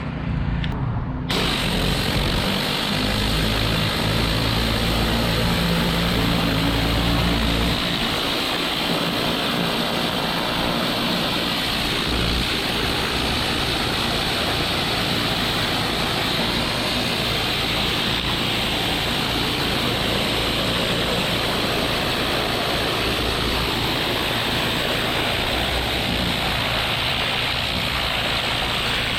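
Gas-engine pressure washer running steadily, with a hiss of high-pressure water spray that starts abruptly about a second in and carries on.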